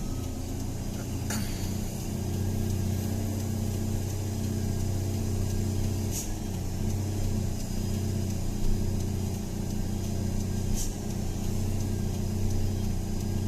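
Truck engine running steadily, a low drone, on a steep downhill grade, with a few faint clicks.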